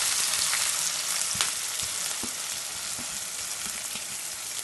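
Thinly sliced onions and green chillies sizzling in hot oil in a kadai, the sizzle easing off gradually, with a few light knocks.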